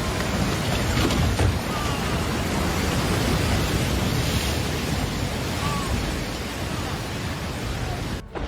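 Storm wind and heavy waves in a harbor: a steady, dense rush of noise.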